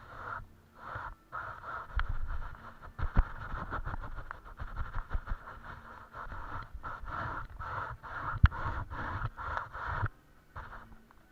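Paintbrush scrubbing paint onto a canvas in a run of short, quick strokes, with a few sharp knocks in between.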